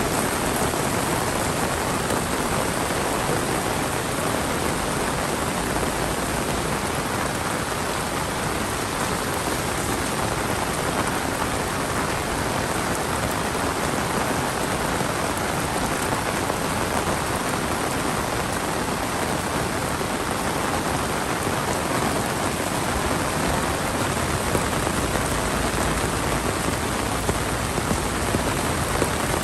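Heavy monsoon rain pouring steadily, a dense even hiss of rain falling on the ground and surfaces.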